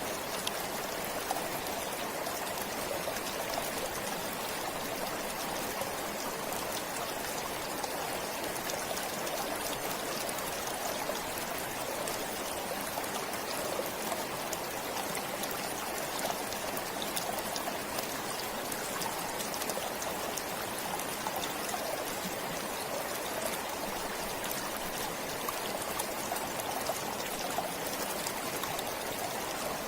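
Stream water flowing steadily, a constant rush with fine trickling and splashing.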